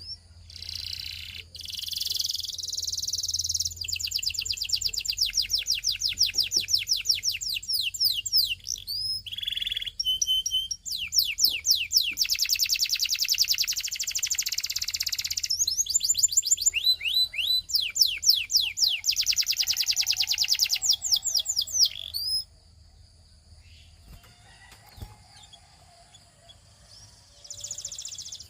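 Belgian singing canary (domestic canary) singing a long song of fast rolling trills, phrase after phrase of rapidly repeated high notes. It falls silent for a few seconds near the end and then starts again.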